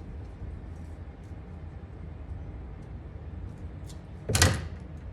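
A short, sharp clack about four seconds in, likely a hand crimping tool closing on a wire connector, over a steady low hum with a few faint small ticks.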